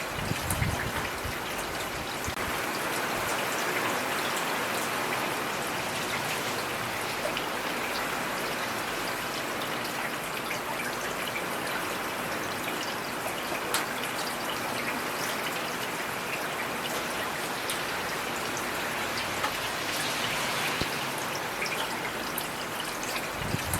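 Steady heavy rain with individual drops pattering on surfaces, a few sharper drop hits standing out, over a running stream.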